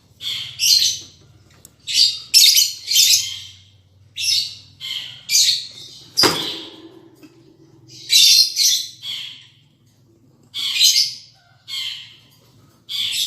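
Lovebirds giving short, shrill chirping calls in quick clusters, about a dozen through the stretch, with a single sharp knock about six seconds in that rings briefly.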